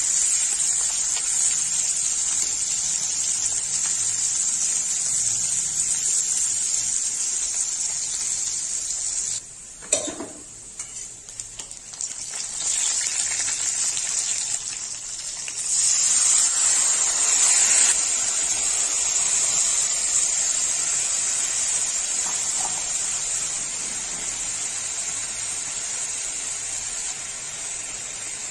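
Sliced onions sizzling as they fry in hot oil in a kadai, the tempering of dried red chillies and bay leaf for a khichuri. The sizzle falls away for a few seconds about ten seconds in, with a single knock, then comes back and fades a little toward the end.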